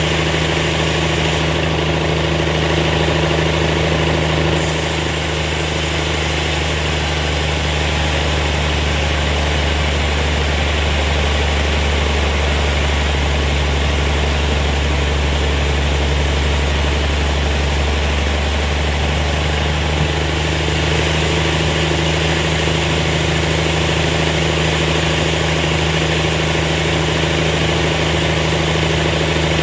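A sawmill's engine-driven machinery running steadily at a constant speed, with an added high hiss from about five seconds in to about twenty seconds in.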